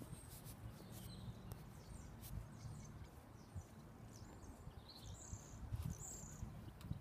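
Faint outdoor ambience: a low rumble with a few short, high bird chirps, a handful around the middle and later on.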